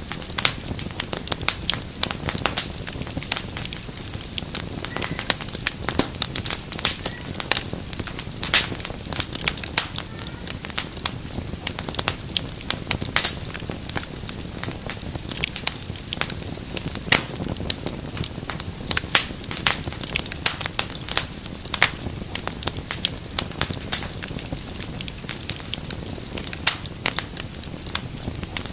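Wood fire crackling and popping steadily, with frequent sharp irregular snaps over a low rushing hiss.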